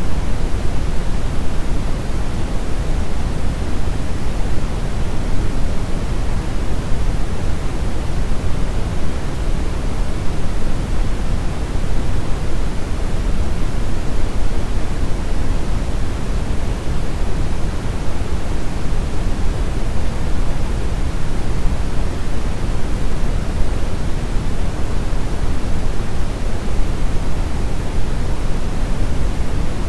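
Steady brown noise: a smooth hiss, deepest in the bass and dimming toward the treble.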